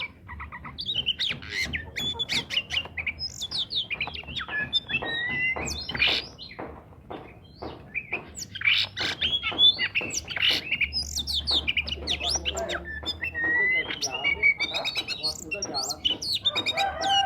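Oriental magpie-robin singing vigorously and without pause: a rapid stream of short whistles, chirps and harsh squawky notes.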